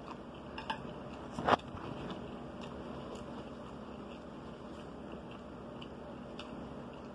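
Quiet eating sounds: soft chewing and small mouth noises over a faint steady room hum, with one sharp click about a second and a half in.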